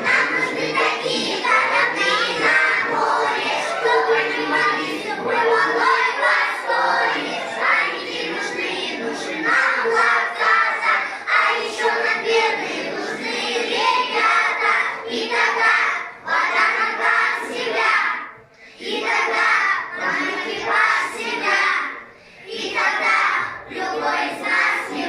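A group of young children singing a song together in chorus over musical accompaniment, with brief pauses between phrases.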